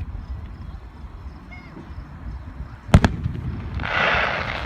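Fireworks display: a single sharp bang of a firework about three seconds in, followed by about a second of hissing crackle over a low rumble.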